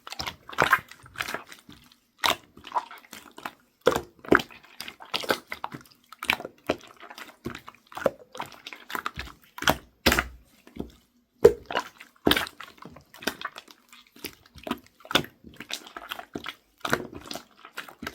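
Slime being squeezed and played with by hand, making irregular wet clicks, pops and squishes several times a second.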